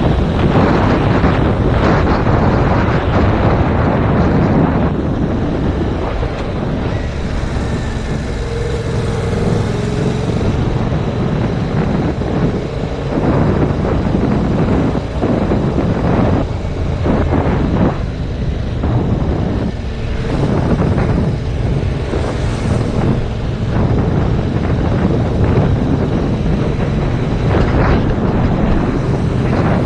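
Heavy wind buffeting on a GoPro action camera's microphone during a ride on a Yamaha MT-07 motorcycle, rising and falling in gusts over the bike running underneath.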